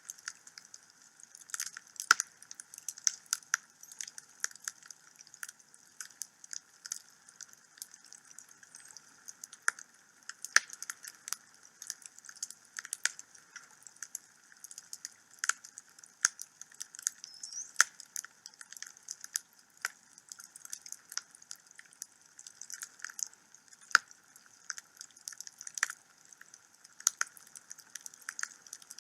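Wood fire in a home fireplace crackling: many sharp, irregular pops and snaps over a faint hiss.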